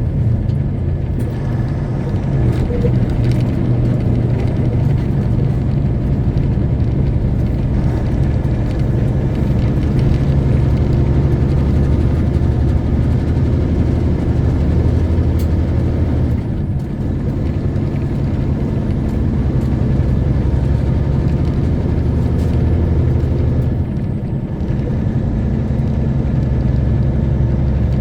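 Semi truck's diesel engine running steadily under way, a deep, continuous drone, with two brief dips in level, one about two-thirds of the way through and one near the end.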